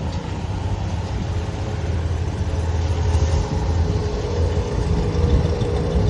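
Truck engine idling steadily, a low even rumble with a faint steady whine above it.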